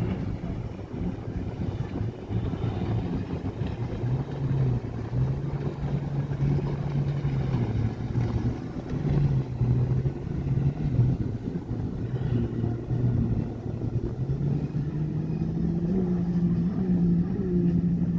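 Motorboat engine running with a low hum whose pitch shifts up and down and climbs in the last few seconds, over a steady rushing noise.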